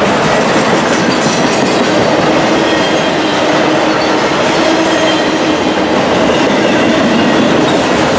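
Freight train cars rolling past close by: a loud, steady noise of steel wheels on rail that holds even throughout.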